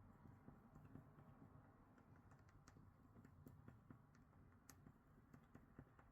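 Near silence with faint, irregular light clicks and ticks, scattered through the whole stretch.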